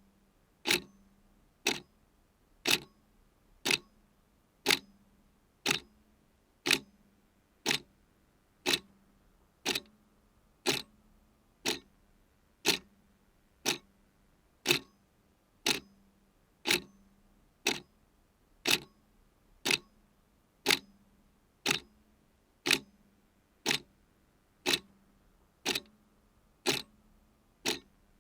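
A clock ticking steadily, about one sharp tick a second, each tick with a brief low ring.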